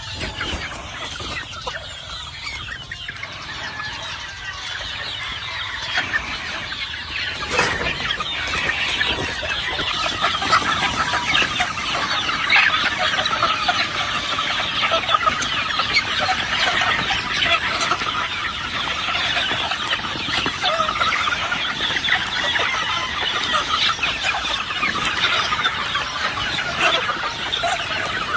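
Many game fowl chickens clucking and calling at once in a dense, continuous chatter, growing louder about eight seconds in.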